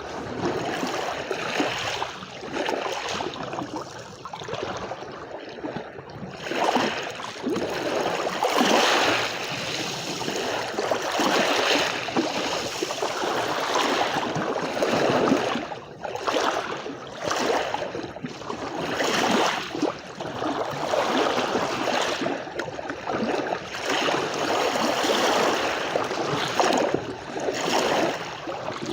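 Sea waves washing onto a beach, the splashing noise swelling and easing every few seconds.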